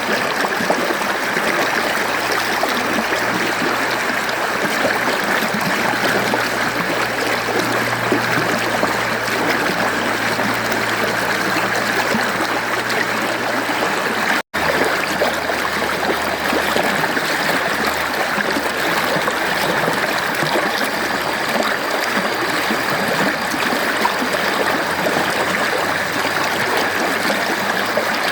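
Mountain stream flowing steadily, an even rush of running water, with a split-second break about halfway through before it carries on.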